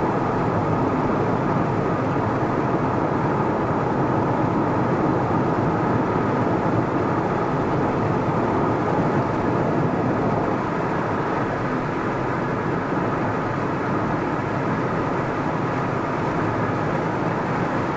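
Steady road noise of a car driving along: tyre noise and engine hum holding level without change.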